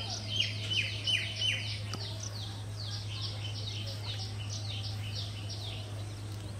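A bird calling a fast run of short, falling chirps, about four a second, loudest over the first two seconds and trailing off near the end, over a steady low hum.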